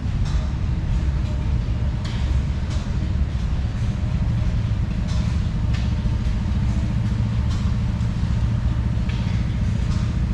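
An engine running steadily close by, a low even drone with a rapid pulse, with scattered short high clicks over it.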